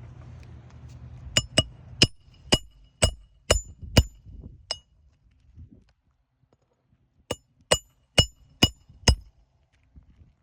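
Roofing nails driven by hammer into asphalt shingles: two runs of sharp, ringing metal strikes, about two a second, the first eight strikes long, then a short pause and five more.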